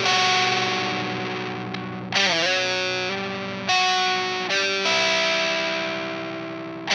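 Fender Telecaster tuned down to baritone pitch with flatwound strings, played through an Idiotbox Power Drive overdrive pedal. Slow distorted chords are struck about four times and left to ring out, and the one a couple of seconds in wavers in pitch just after it is struck.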